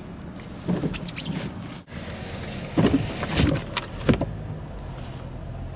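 Car cabin while driving slowly: a steady low engine and road drone, with short squeaks and knocks about a second in and again around three to four seconds in.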